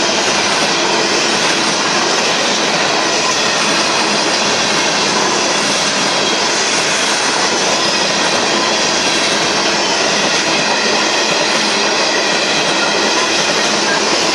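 Union Pacific manifest freight train's tank cars rolling steadily past at speed: loud, unbroken wheel-and-rail noise with faint steady squealing tones from the wheels.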